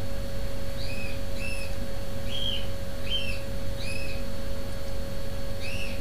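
A bird chirping, short arched notes repeated about once a second at uneven intervals, over a steady low hum.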